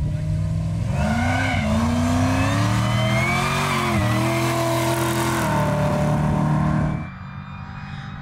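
V8 engine of a drag-racing ute launching and accelerating hard, its pitch climbing and dropping at gear changes about four and five and a half seconds in. About seven seconds in it falls to a fainter, more distant engine sound.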